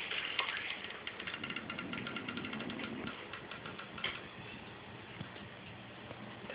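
Dog snoring: a rapid, rattling snore through roughly the first three and a half seconds, then quieter breathing.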